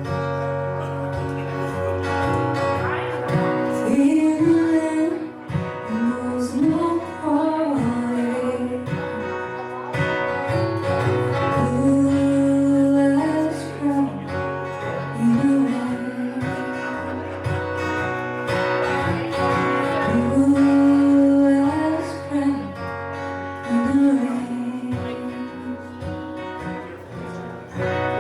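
Live song: a voice singing a melody over guitar accompaniment.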